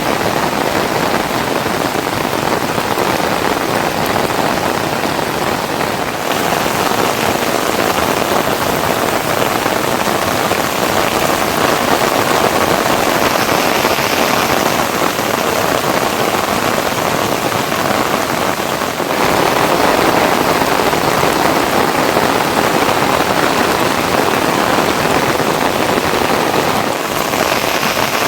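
Heavy rain pouring down steadily in a dense, even hiss, a little louder about 19 seconds in.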